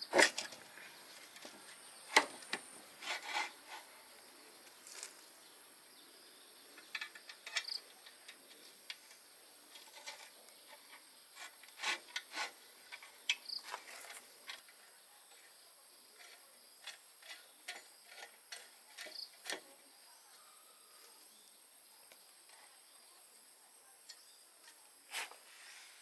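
Scattered light clicks and taps, some in quick little runs, from tools and parts being handled during workshop repair work.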